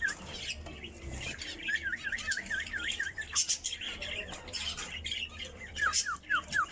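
Male cockatiel whistling its courtship song to the female: two runs of quick, repeated rising-and-falling whistle notes, one about two seconds in and another near the end, with sharp chirps between.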